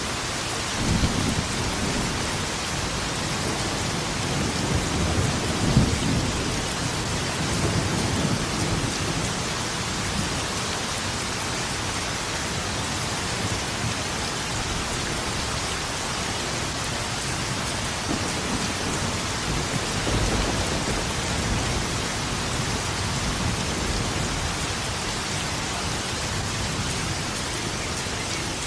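Steady rain falling, with low rolling thunder rumbling through it, strongest in the first third and again about two-thirds of the way through.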